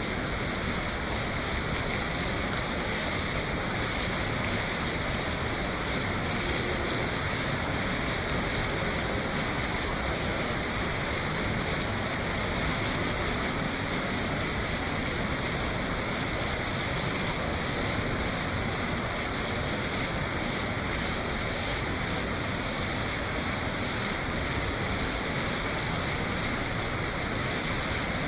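Rain falling steadily, an even rushing hiss that never lets up.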